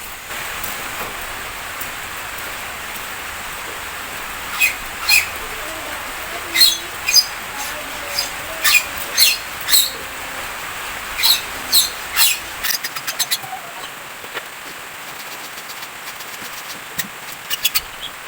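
Steady hiss of rain, with short sharp bird chirps scattered through it and a quick run of ticks about two-thirds of the way in.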